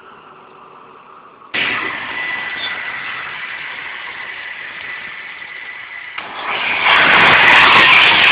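Electric trains passing at speed close by: a sudden rush of wheel and air noise with a steady high whine starts about a second and a half in, then a louder rush builds near the end as a Pendolino comes through.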